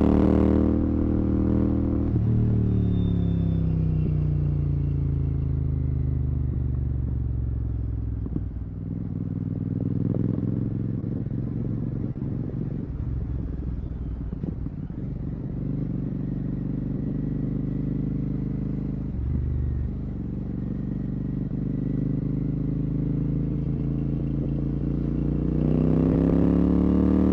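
Royal Enfield Continental GT 650's 648 cc parallel-twin engine through a Red Rooster aftermarket exhaust with the dB killer removed. The revs fall over the first several seconds as the bike slows, stay low through the middle, then rise again near the end as it accelerates.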